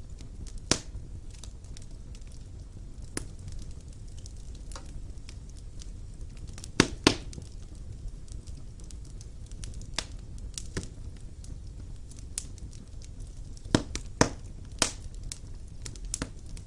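Wood fire burning in a fireplace: a steady low rumble of flames with irregular crackles and sharp pops, the loudest a quick pair about seven seconds in and a cluster around fourteen seconds.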